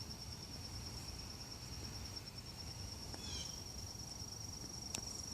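Insects trilling in one steady, high, finely pulsed note, with a brief faint chirp about three seconds in.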